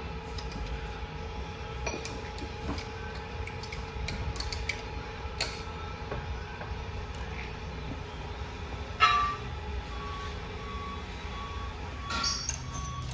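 Metal parts of a heavy truck transmission being handled during assembly: scattered light clinks and taps over a steady low shop hum, one sharp metal clank about nine seconds in and a cluster of clinks near the end. A short beep repeats about twice a second from about ten seconds in.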